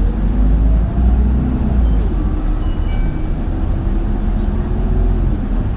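Isuzu Erga city bus heard from inside the cabin while driving: a loud, steady low diesel rumble with a drivetrain whine that drops about two seconds in, climbs again, and falls away near the end.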